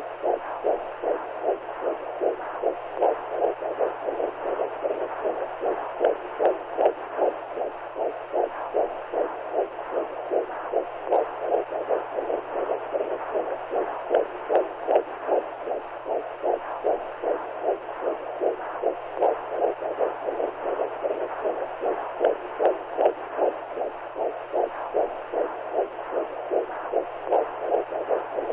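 Womb sound: a steady whooshing rhythmic pulse, like a heartbeat, over constant noise and a low hum.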